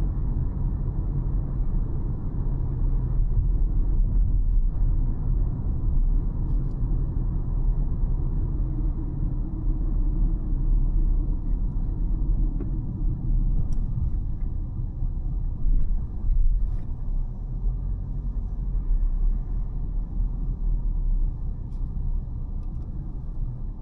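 Car driving along a road: a steady low rumble of tyres and engine, with a brief louder bump about sixteen seconds in.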